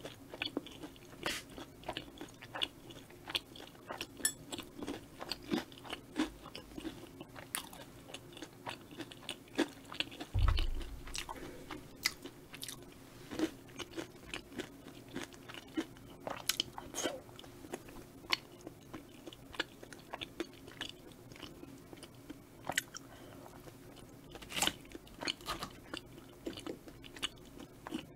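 Close-miked eating: crisp crunching and chewing of battered Korean fried snacks and tteokbokki rice cakes, in many short bites, over a faint steady hum. A dull low thump comes about ten seconds in.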